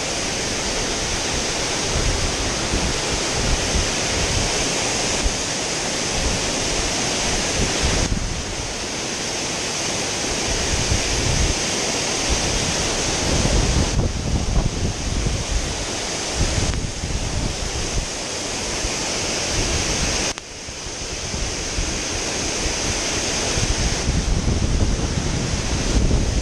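Waterfall rushing steadily, with wind buffeting the microphone. The sound shifts abruptly a few times.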